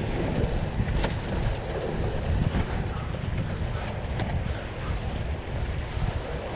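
Wind buffeting the microphone on a sailboat under way, over the wash of water along the hull, with a couple of faint clicks.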